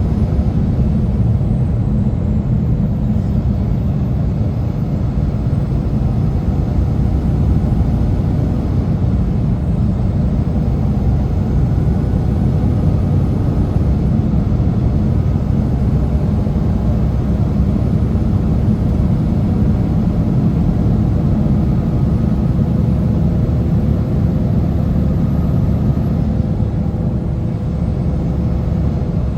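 Semi truck driving, a steady low drone of diesel engine and road rumble with no change in pace.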